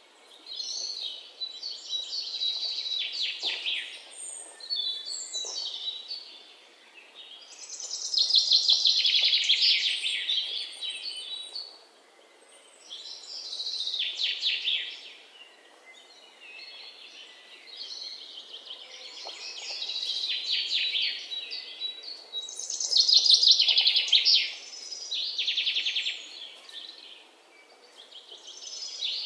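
Birds chirping: high-pitched phrases of rapid chirps, each lasting a second or two, come every few seconds with short lulls between them.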